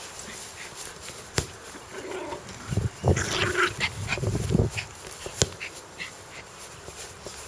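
Angry dog vocalizing in a dense outburst of about two seconds in the middle, with a sharp click before it and another after it.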